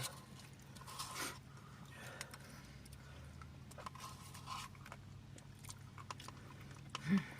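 Quiet eating sounds: soft chewing with light clicks and scrapes of a spoon in a Blizzard cup, over a steady low hum.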